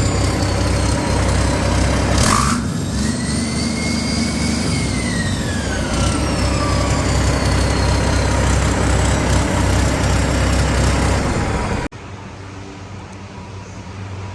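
2006 Cummins ISX 15-litre six-cylinder turbo diesel running on a test run, with a high whine that glides down, then rises and falls again as the revs change. There is a short burst of hiss about two seconds in. Near the end the engine sound cuts off suddenly, leaving a quieter steady hum.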